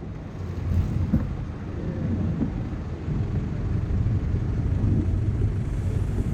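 Steady low rumble of road traffic mixed with wind noise on the microphone of a moving bicycle.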